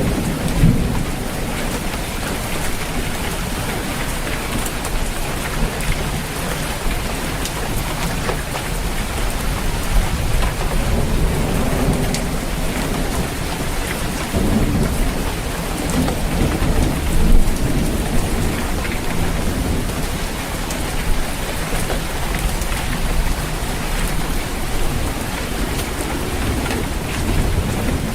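Steady heavy rain drumming on a roof, with low rolling thunder swelling and fading underneath, strongest about halfway through.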